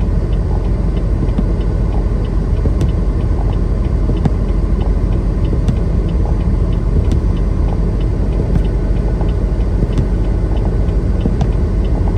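Semi-truck cab interior while driving: steady engine and road rumble, with a faint click about every second and a half.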